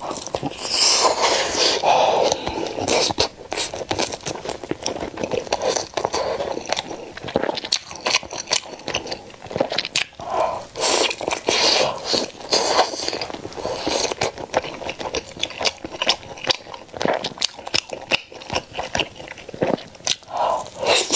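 Close-miked biting and chewing of a grilled chicken leg roll, with a dense run of quick wet clicks and smacks.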